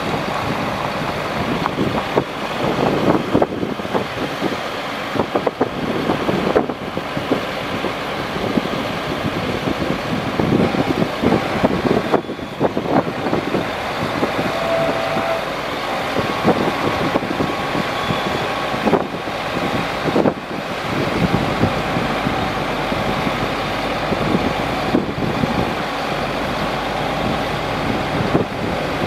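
2000 Chevrolet C7500 ladder truck running, a steady mechanical noise throughout, with a few brief faint tones about halfway through.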